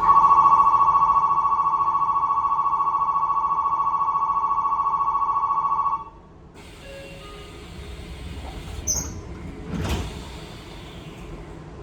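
Station electric departure bell ringing steadily on two tones for about six seconds, then cutting off; the train's sliding doors then close, with a short high beep and a deep thud about ten seconds in.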